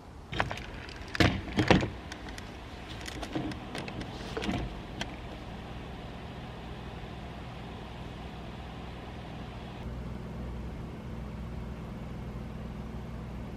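Several knocks and clicks of someone moving about and handling things inside a car, the loudest a second or two in, followed by a steady low hum.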